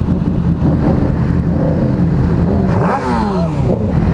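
Motorcycle engine running steadily on the move. About three seconds in, an engine revs, its pitch rising and then falling away.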